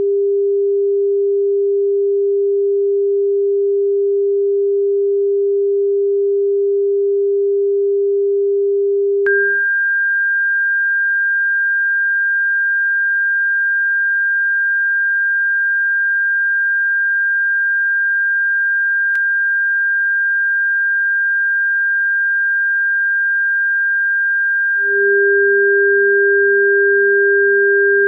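Electronically generated pure tones from a bird-repellent frequency track. A steady low tone plays first, then about a third of the way in it switches to a single steady, higher whistle-like tone. Near the end the low tone comes back and the two sound together.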